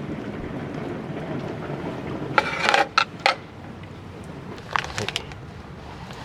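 Wind buffeting the microphone with a low rumble, dying away after a couple of seconds, followed by a few short, sharp handling noises, twice.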